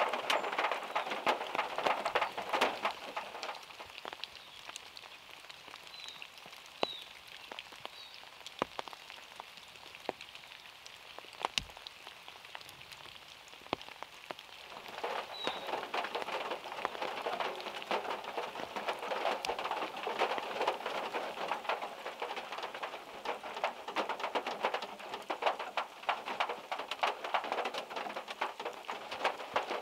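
Heavy rain and big drops from overhead trees falling on a small car's body and the wet ground around it. The rain eases a few seconds in and picks up again about halfway through, with one heavier drop striking the car near the middle.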